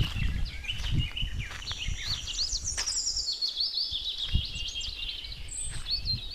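A flock of small birds chirping and twittering, many quick overlapping calls, over a low uneven rumble.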